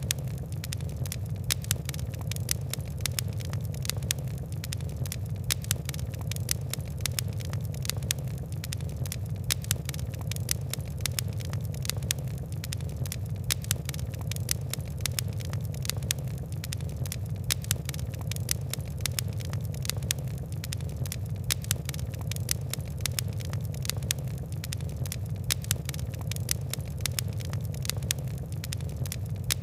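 Wood-and-coal fire crackling: a dense, steady stream of small sharp crackles and ticks over a low, even rumble of flame.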